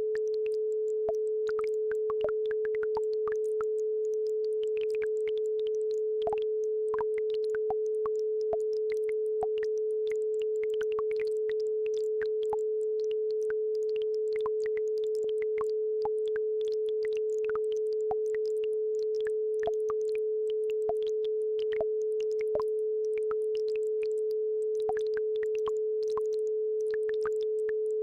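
A steady pure tone, the 432 Hz base frequency of an isochronic-tone track, running unbroken. Faint babbling-brook water sounds lie under it as scattered small drips and gurgles.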